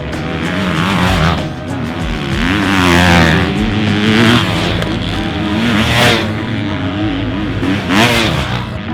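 Several motocross bike engines revving on the track, their pitch rising and falling over and over as the riders open and close the throttle.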